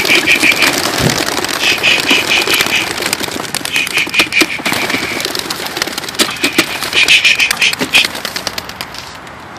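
Tippler pigeons' wings flapping and clapping in four bursts of fast pulsing, clicking sound as freshly released young birds take off and circle.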